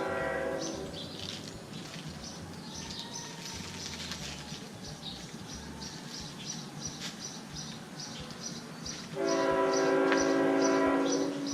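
Train horn blowing: a short blast ending about a second in, then a longer, louder blast starting near the end. A steady rhythmic high chirping, about three a second, runs beneath.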